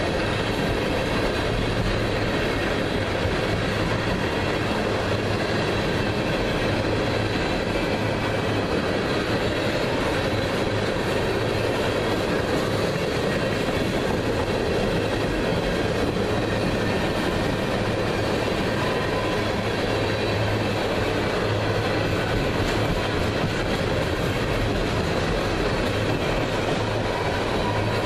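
Long string of empty ethanol tank cars on a freight train rolling past close by: the steady sound of steel wheels running on rail.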